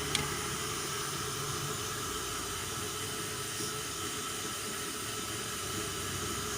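Hot-air gun blowing a steady hiss, heating the headlamp's sealant glue to soften it for resealing. A single sharp click just after the start.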